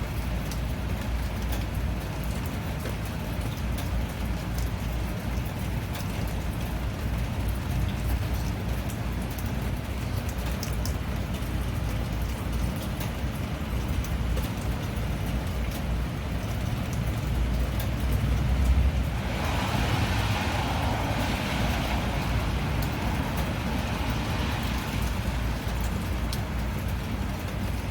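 Steady rain falling, an even hiss over a low rumble with fine drop ticks. About two-thirds of the way through, the hiss swells for several seconds and then eases back.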